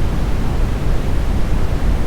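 Smoothed brown noise: a steady, deep hiss with most of its weight in the bass, unchanging throughout.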